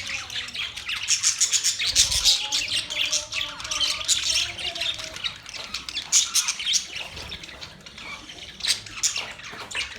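A flock of small cage birds chirping and squawking all at once, a dense, continuous chatter of quick high calls.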